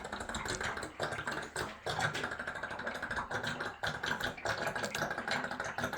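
Water trickling and spattering from an electric water heater's drain as the tank empties, a rapid irregular patter.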